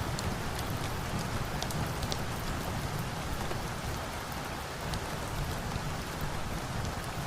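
Steady rain falling, with a low rumble beneath and scattered sharp ticks of drops throughout.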